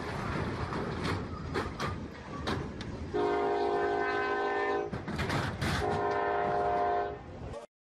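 Diesel freight locomotive rumbling through a level crossing just after striking a semi-trailer, with several sharp cracks and clatters as the trailer is shoved and torn apart. Then the locomotive horn sounds two long multi-note blasts, about two seconds each, before the sound cuts off abruptly.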